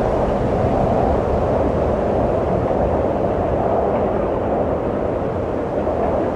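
Steady rushing wind, a dense noise centred low in pitch that swells slightly and eases a little near the end.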